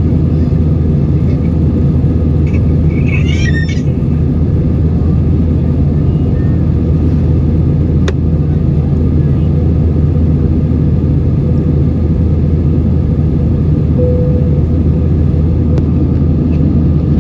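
Airbus A320-232 passenger cabin in flight: the steady, loud, low rumble of its IAE V2500 engines and the airflow. A brief high-pitched squeak sounds about three seconds in.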